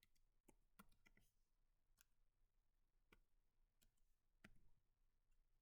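Near silence with faint, irregular clicks of computer keys being pressed, about eight over the stretch, as a password is typed.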